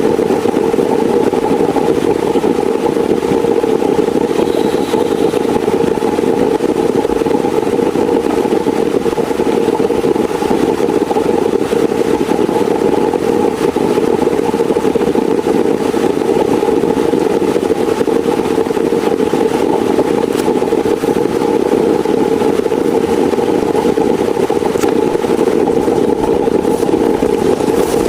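Heavy rain falling steadily, a loud, even, dull rushing noise with no breaks.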